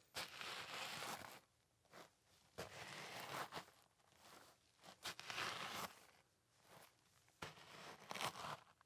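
Boots walking slowly, about four or five steps, each a crunching scuff lasting about a second with quiet gaps between.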